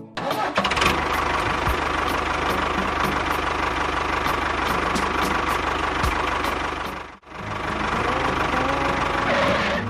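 Tractor engine running steadily with a fast knocking beat. It breaks off for a moment about seven seconds in, then runs again.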